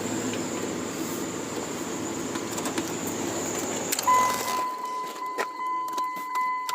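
Engine idling with a thin, steady high-pitched belt squeal, then shut off about four seconds in. As it stops, a steady electronic warning tone starts and keeps sounding, with a few light clicks.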